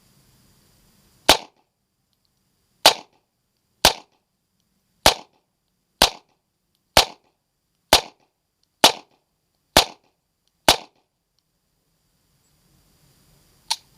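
USFA Zip 22 .22 LR firearm firing ten shots of Remington Thunderbolt ammunition, a sharp crack about once a second, with no malfunction: the magazine runs clean. A fainter click follows near the end.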